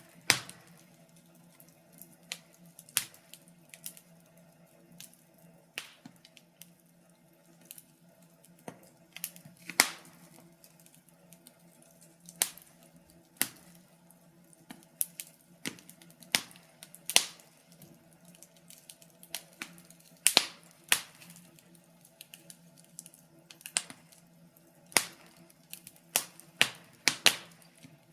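Wood fire crackling: irregular sharp snaps and pops, a few at a time with short gaps between, several of them much louder than the rest.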